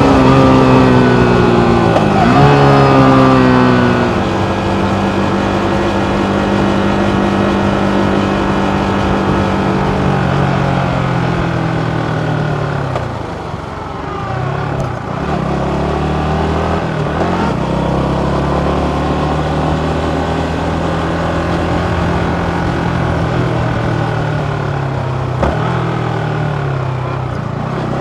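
Yamaha MT15's single-cylinder engine running under way at high revs. Its pitch dips and recovers quickly about two seconds in, then steps down at about four seconds. The revs fall away around the middle as the bike slows, then climb again and hold steady.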